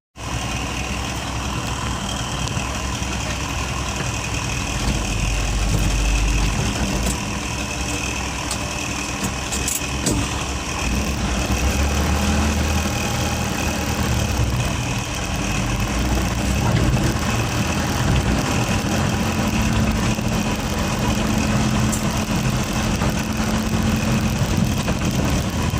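Truck engine running steadily, with a faint, steady high whine over the low engine sound.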